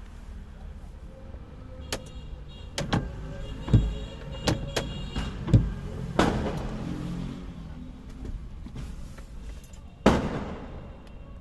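Fireworks going off: a run of sharp bangs over the first six seconds or so, then one loud bang near the end. The louder bangs die away in a lingering echo.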